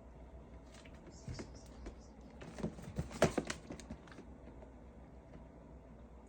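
A calico cat's paws and claws pattering and scratching as she spins after her own tail: a run of quick light clicks and scuffs, thickest about three seconds in, over a faint room hum.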